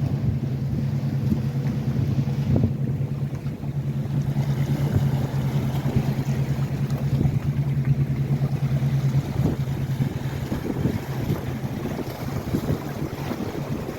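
Motorboat engine running with a steady low drone that fades away about nine or ten seconds in, with wind rumbling on the microphone.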